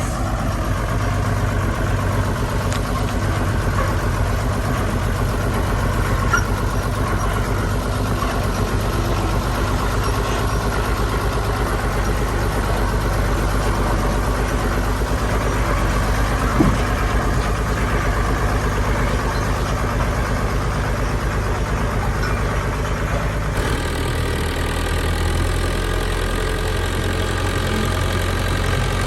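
Heavy diesel engine of construction machinery running steadily, with a single knock midway and a change in the engine's tone about three quarters of the way through.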